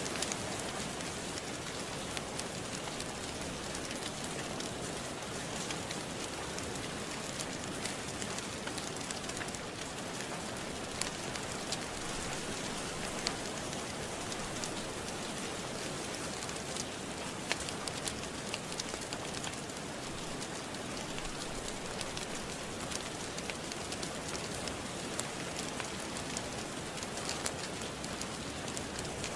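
Steady rain falling, with many small, sharp crackles scattered irregularly through it from a wood fire in a fireplace.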